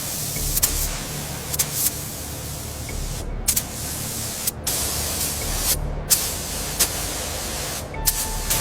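High-pressure spray hissing steadily, cut off briefly about four times as the trigger is released and pressed again, with a few sharp clicks.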